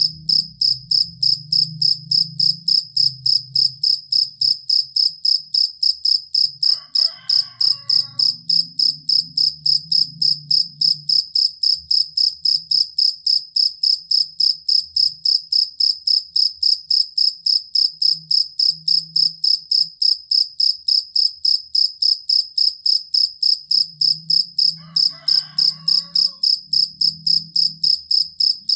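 Field cricket (jangkrik kalung) chirping steadily, a high pulsing trill at about five chirps a second that holds an even rhythm and level throughout.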